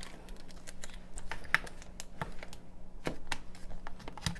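Scattered light clicks and taps of a bowl and hands handling a stainless-steel kitchen scale, at irregular times.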